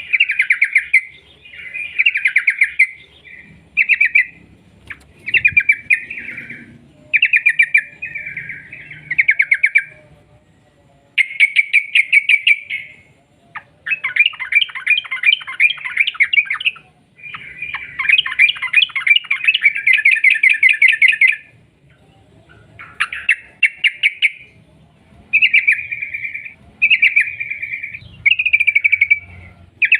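Yellow-vented bulbul (trucuk) singing in repeated bursts of fast, bubbling chatter, the 'ropel' song, each phrase one to three seconds long with short pauses. Two longer runs come near the middle.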